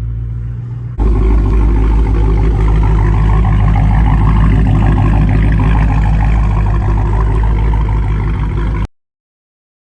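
Dodge Challenger Hellcat's supercharged 6.2-litre HEMI V8 idling steadily through a straight-piped exhaust with a deep, loud rumble. About a second in it turns abruptly louder, then cuts off suddenly near the end.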